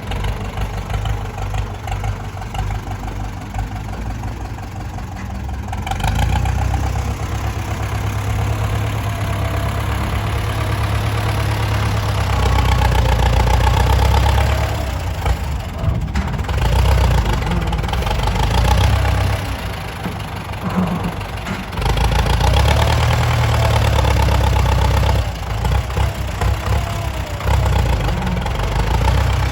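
Heavy diesel engine running, its sound swelling and dropping back several times.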